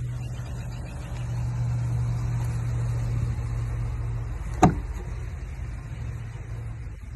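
Utility truck's engine idling with a steady low hum, a little louder for a few seconds, and one sharp knock about halfway through.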